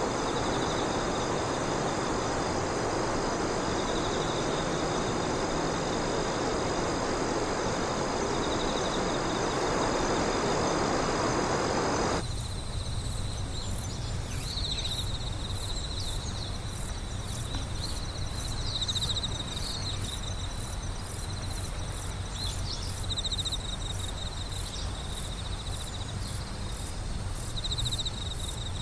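Night insects chirping: repeated trills and a fast, even high-pitched pulsing. For the first twelve seconds or so a steady rushing noise lies over them, then cuts off suddenly, leaving the insects clear.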